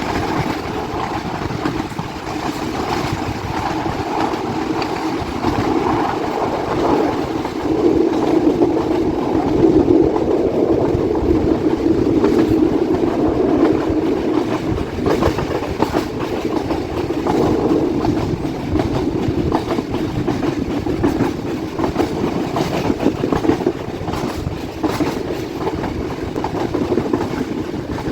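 Passenger express train running along the line: a steady rumble of the moving carriages with the wheels clacking over rail joints, the clacks coming thicker in the second half.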